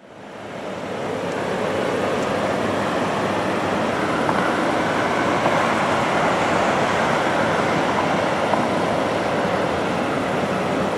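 A long freight train rolling along the track, a steady rumbling noise mixed with the rush of a mountain river. The sound fades in over the first second or two and then holds even.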